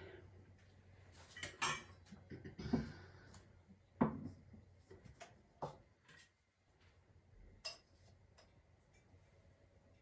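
Kitchen dishes and utensils clinking and knocking: a scatter of separate clinks and knocks, the loudest about four seconds in, then a quieter stretch near the end.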